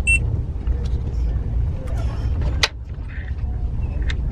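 Steady low rumble of a moving passenger train heard inside the carriage. Right at the start comes a short electronic beep from a ticket inspector's handheld ticket scanner, and a sharp click about two and a half seconds in.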